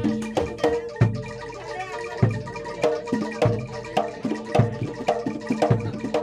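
Live Javanese gamelan music accompanying a kuda lumping dance: mallet-struck metal instruments play a repeating pattern over low drum strokes. The music eases briefly about a second in, then picks up again.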